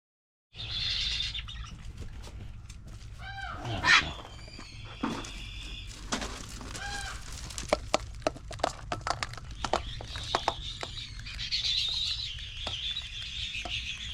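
A bird calling in short, arched, repeated notes, then a longer hissy high call near the end, with scattered sharp clicks and a loud knock about four seconds in.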